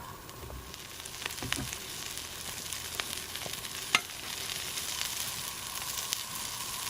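Hamburger patties sizzling on a grill over campfire embers: a steady frying hiss that grows louder about a second in, dotted with small pops and crackles, one sharper pop about four seconds in.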